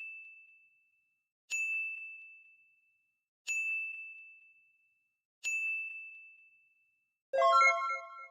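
A high, bell-like ding of one pitch sounding every two seconds, each fading out over about a second, then a louder chime of several notes about seven seconds in.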